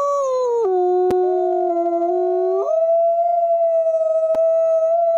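Wolf howling: long held notes that jump abruptly in pitch, with a second howl overlapping for a while from about a second in, then one high note held steady to the end.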